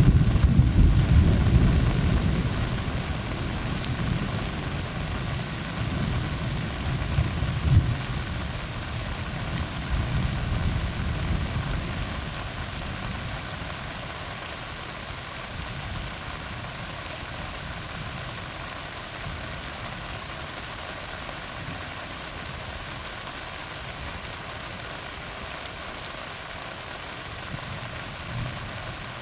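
Steady rain falling on a tar road. A long, low rumble of thunder is loudest at the start and dies away over about twelve seconds.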